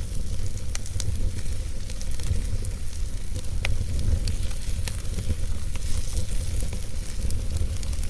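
Fire in a fireplace crackling: scattered sharp pops and ticks over a steady low rumble.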